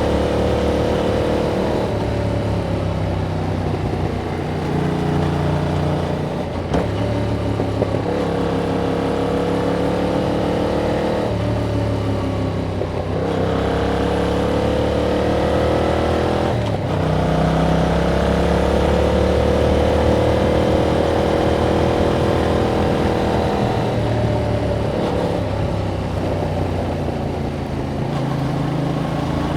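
A 2021 Yamaha MT-07's 689 cc parallel-twin engine, through its stock exhaust, pulling under way. The engine note climbs and falls again and again as the bike accelerates and rolls off. There are sudden drops in pitch about 13 and 17 seconds in.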